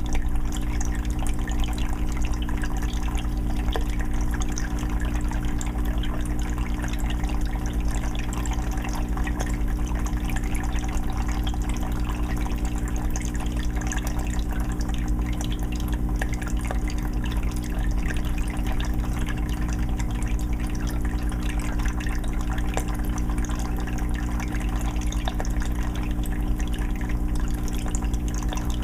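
Fish tank's water filter running: water trickling and dripping steadily into the tank over a low, steady hum.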